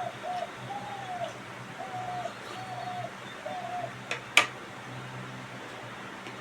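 A dove cooing: a run of about six short, even notes. Just after four seconds in come two clicks, the second sharp and loud.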